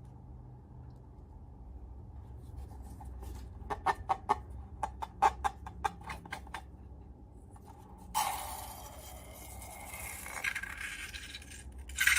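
Slime and long balloons being worked by hand: a run of short squelchy pops for a few seconds, then a longer scraping squish from about eight seconds in, loudest near the end.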